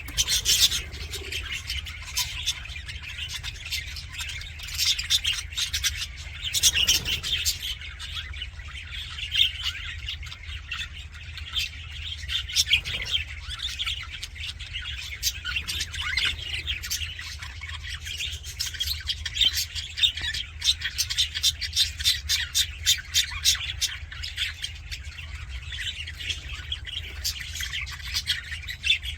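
Budgerigars chattering and warbling: a continuous stream of fast chirps and squawks, over a steady low hum.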